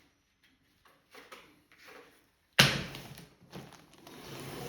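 An axe striking a cardboard box once, a sharp hit about two and a half seconds in, followed by the scraping and rustling of the cardboard as the blade cuts it open. A few faint taps and handling sounds come before the hit.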